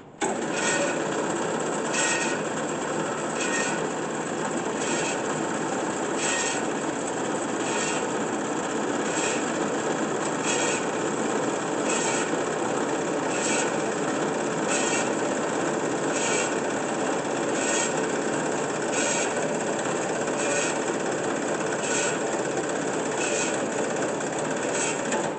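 Kalamazoo 9AW V variable-speed horizontal band saw running and cutting, a steady hum and rasp with a faint high tick about every second and a half. It starts at once on switch-on and cuts out suddenly near the end, when the saw reaches the bottom of its cut and shuts itself off.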